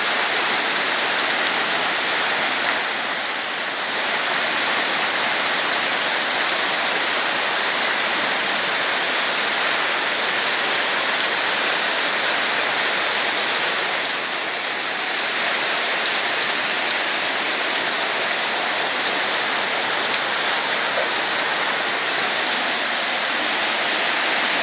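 Heavy rain falling steadily, a dense even hiss of rain on the surroundings.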